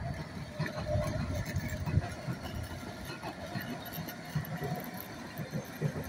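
London Underground S Stock train running past on the track, a steady low rumble with a faint hum, loudest about two seconds in.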